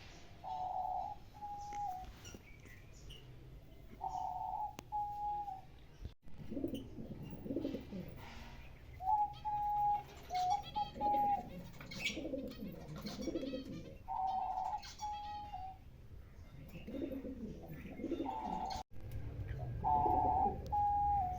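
Caged aviary birds calling: a short, clear two-part call repeated about every four to five seconds, with lower cooing calls and faint chirps in between.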